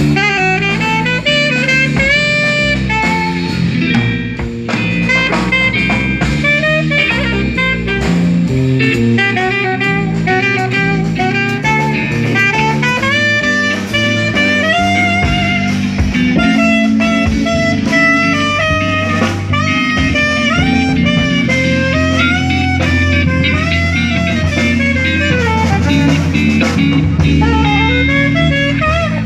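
Instrumental jazz quintet playing live: a drum kit and bass under a guitar and a horn melody of quick, separate notes, in a blues-jazz style.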